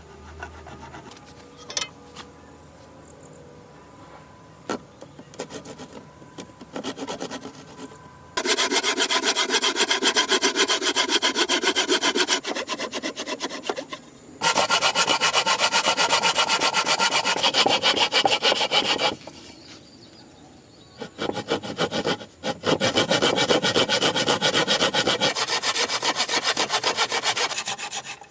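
Hand saw cutting through wood in three long bouts of quick, even strokes, with a few light knocks before the first bout.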